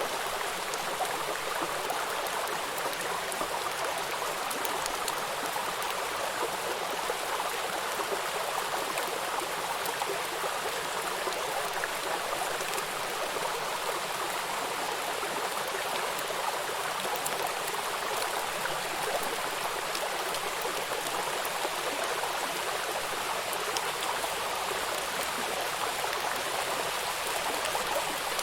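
River water rushing over rocks at a waterfall, a steady even roar with no change.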